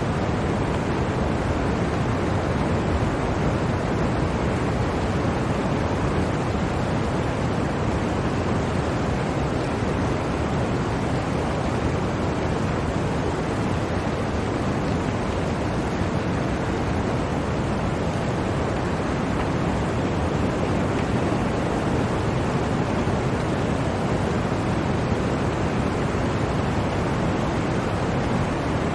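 Blizzard wind blowing steadily: a dense, even rushing noise with no distinct gusts or breaks.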